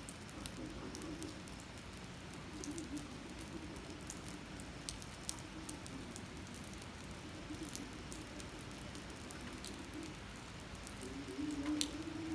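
Steady rain falling on a wet paved parking lot, with scattered sharp ticks of drops landing close to the phone's microphone. A low hum runs underneath and grows stronger near the end.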